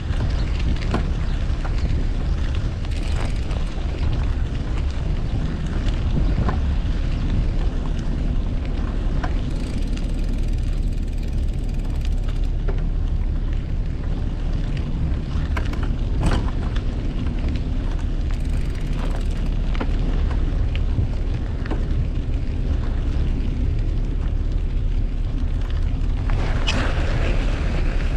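Low wind rumble buffeting the microphone of a moving bicycle, over street traffic noise, with scattered clicks and rattles. A louder passing noise swells near the end.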